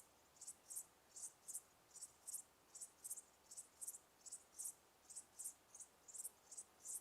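Cricket chirping faintly in a steady, even rhythm of short high-pitched chirps, about two to three a second, often in pairs.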